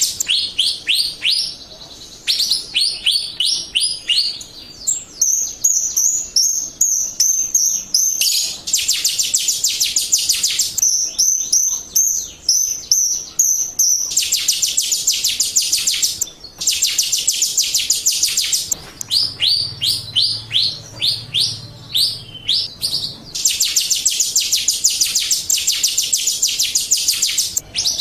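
Jalak rio starling song: long runs of very rapid, high chattering chirps, broken up by slower series of sharp downward-sweeping chirps.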